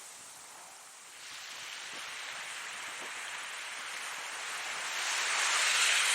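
Ocean waves on a shore: a hiss of surf that swells from about a second in and reaches its loudest near the end as a wave breaks and washes in.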